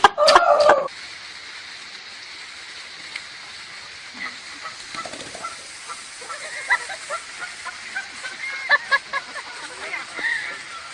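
Many short, faint bird-like calls over a steady hiss, growing busier in the second half. Just before it, a brief burst of loud voices cuts off under a second in.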